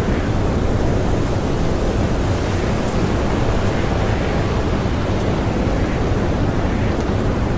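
Blizzard wind blowing in a steady, dense rush, with faint higher howls rising now and then.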